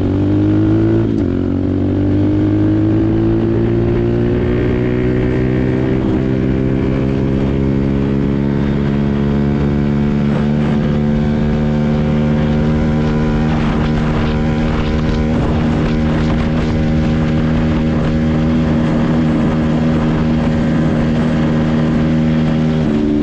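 Kayo Evo 125 pit bike's single-cylinder four-stroke engine at full throttle on a top-speed run: the pitch climbs fast, dips briefly about a second in, then rises slowly and holds steady at high revs.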